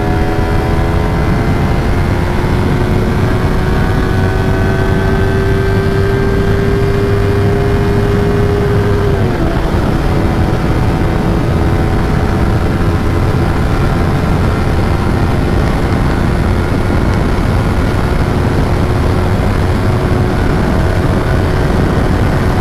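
Yamaha R3 parallel-twin engine with a full-system exhaust, running hard under way. Its drone creeps up in pitch, drops suddenly about nine seconds in as the bike shifts up a gear, then holds steady.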